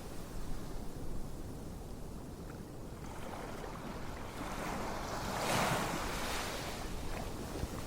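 Ocean waves washing ashore, as a steady surf with one wave swelling up and falling away about five to six and a half seconds in.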